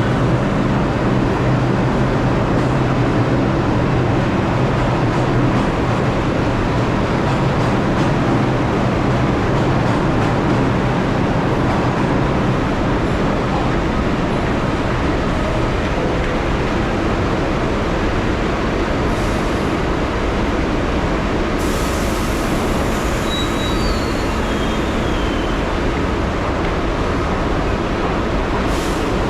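New York City subway train running: a loud, steady rumble of wheels on the track, with a brief faint high squeal about two-thirds of the way through.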